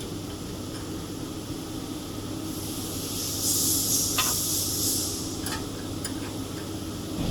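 A hiss of about two and a half seconds, starting a couple of seconds in, with a few light clicks after it, over a steady low hum.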